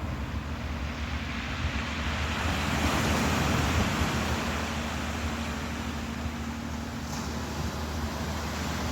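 Ocean waves washing, a broad hiss that swells about three seconds in and slowly eases, over a steady low hum.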